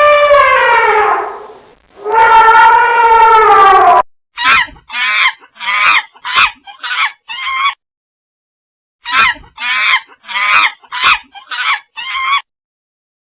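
Animal calls: two long drawn-out calls that sag in pitch at their ends, then two runs of about seven short, harsh calls each, with a pause between the runs.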